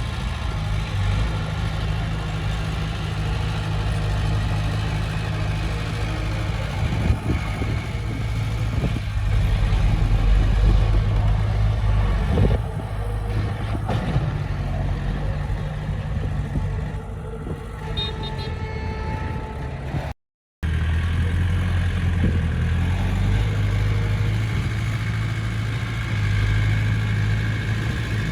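Heavy diesel earthmoving machinery running: a steady low engine drone with a few knocks, swelling somewhat about a third of the way through. The sound cuts out for a split second about two-thirds of the way in, then the drone carries on.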